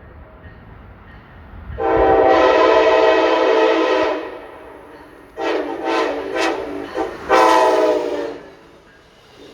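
Train air horn sounding a chord: one long blast of about two seconds, then a quick run of short toots, then another blast of about a second.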